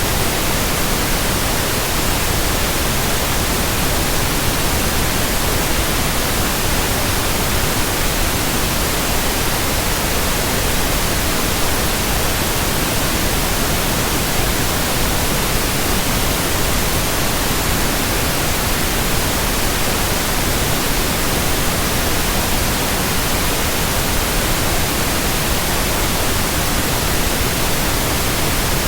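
Steady white noise: an even, unchanging hiss spread across all pitches, with no blade swish, rhythm or other events.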